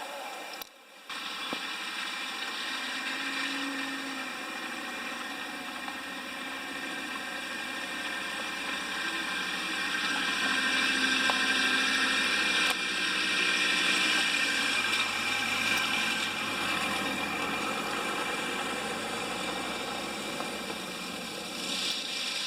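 A motor running steadily under a hiss, with a brief dropout about a second in and a rise in loudness towards the middle.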